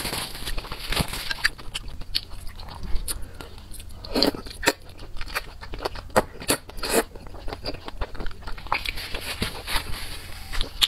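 Close-miked eating sounds: wet chewing and mouth clicks on chewy, sauce-coated food, with sharper crunchy bites and slurps that come thickest about four to seven seconds in.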